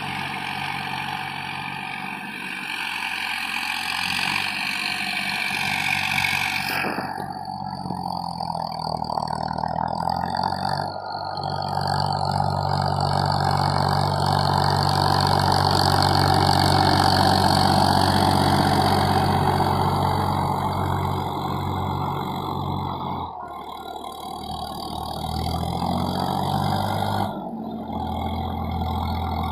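Farmtrac 60 PowerMaxx tractor's diesel engine running steadily under load at about 1500 rpm in high-range second gear while pulling a disc harrow. The sound changes abruptly about a quarter of the way in and dips briefly twice near the end.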